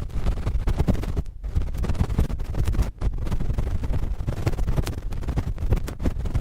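Cotton swab scratching and rubbing directly on a microphone for ASMR ear cleaning: a dense, continuous scratchy crackle with a heavy low rumble from the mic handling.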